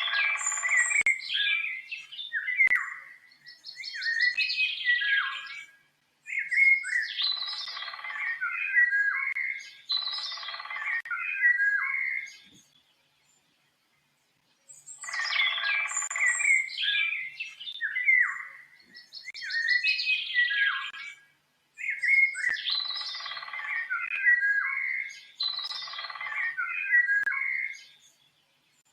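Birdsong: a rapid jumble of chirps and whistled notes. The same sequence plays twice, about fourteen seconds apart, with a two-second gap of silence between, as a looped recording.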